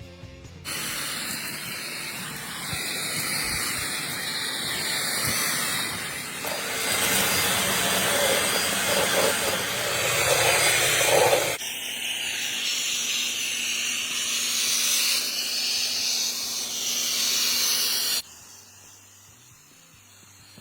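Handheld wet-dry vacuum cleaner running and sucking, a loud steady hiss whose tone shifts twice. It drops away much quieter near the end.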